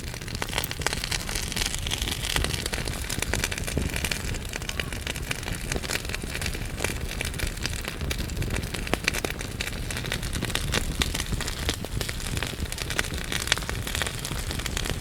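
Wood fire burning in a fireplace: dense, irregular crackling and snapping of burning logs over a steady low rumble of the flames.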